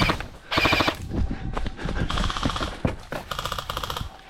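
Airsoft guns firing on full auto in several short rapid-fire bursts, one right at the start, another about half a second in, a fainter one around two seconds in and another near the end.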